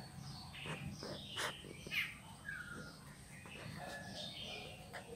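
Faint birds chirping and calling: scattered short high notes and brief whistled glides.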